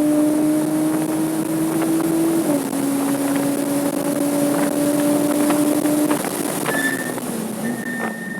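Porsche 987.2 Cayman S flat-six engine under hard acceleration on track, revs climbing, then dropping sharply at an upshift about two and a half seconds in. The engine holds steady, then the revs fall off after about six seconds as the car slows for a corner, with brief tyre squeals near the end, over wind noise.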